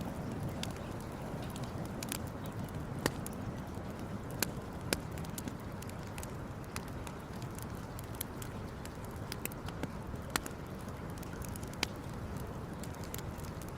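Campfire crackling, with irregular sharp pops and snaps a second or two apart over a steady low rushing noise.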